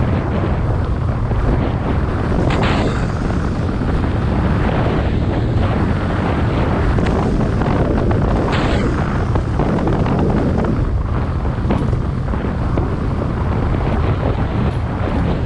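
Steady rush of wind buffeting the microphone of a mountain bike coasting fast downhill, a continuous low rumble with brief hissing swishes about two and a half and eight and a half seconds in.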